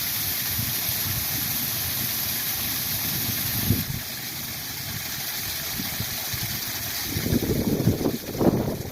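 Waterfall rushing steadily, an even hiss of falling water. The highest hiss eases about four seconds in, and near the end a few louder low buffets come through.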